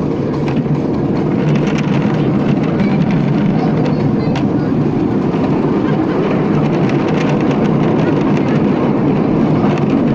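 Miniature railway train running along the track, heard from on board: a steady rumble and rattle with irregular clicks from the wheels.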